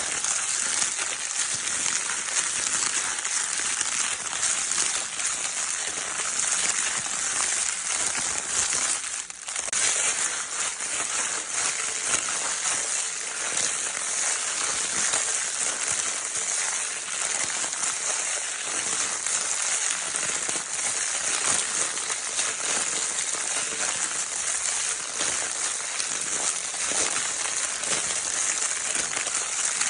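Crinkle paper of a baby's crinkle toy being scrunched continuously, a dense crackling rustle, with a brief lull about nine seconds in.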